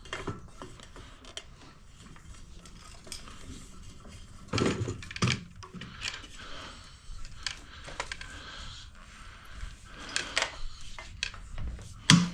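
Metal parts and hand tools clinking and knocking as pump fittings are handled during reassembly, with irregular sharp clicks and a few louder knocks about four and a half to five and a half seconds in and near the end.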